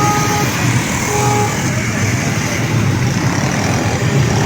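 Loud steady rumble of heavy water flowing over a flooded causeway, mixed with road traffic, with a vehicle horn beeping briefly right at the start and again about a second in.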